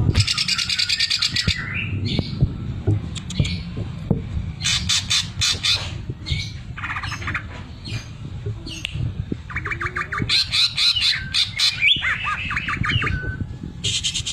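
Cucak ijo (green leafbird) singing in harsh, rapid-fire stuttering phrases, with fast rattling trains of notes in its sewing-machine ('mesin jahit') imitation. A steady low rumble runs underneath.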